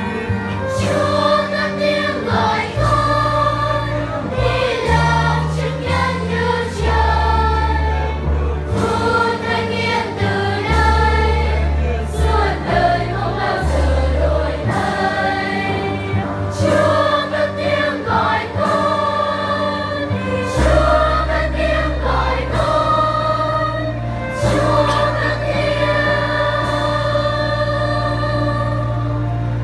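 A children's choir singing a Vietnamese hymn, over sustained low accompaniment notes that change every few seconds.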